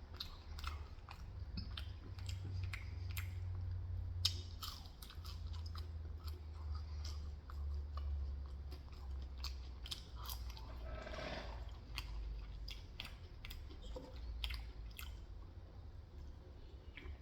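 Close-miked chewing and biting of McDonald's food, many small wet mouth clicks and crunches, over a steady low hum.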